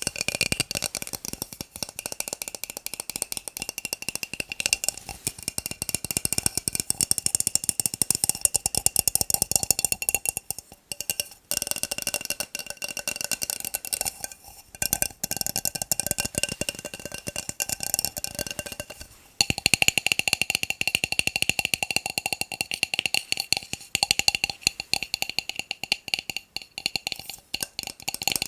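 Fast, dense tapping on plastic cups, each tap ringing with a light pitched tone; the taps pause briefly twice, and the ring changes to a brighter pitch about two-thirds of the way through.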